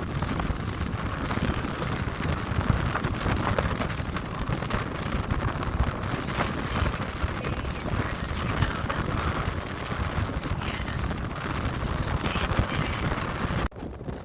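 Wind buffeting the microphone with a steady rushing noise and low rumble, as on a boat under way. It drops off suddenly near the end.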